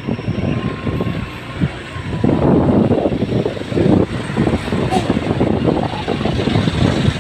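A vehicle or machine engine running with a rough, low rumble that gets louder about two seconds in.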